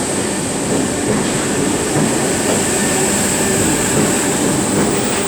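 Merseyrail Class 507 electric multiple unit pulling away from the platform, its wheels running steadily over the rails.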